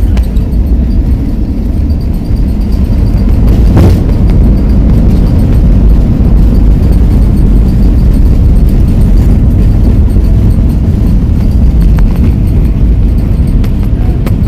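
Loud, steady low rumble of an airliner during its landing, with a brief knock about four seconds in.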